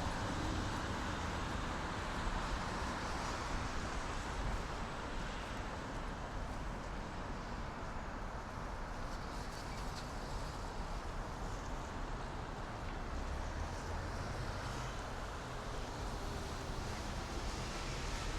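Steady city ambience: a distant traffic hum with a low rumble underneath.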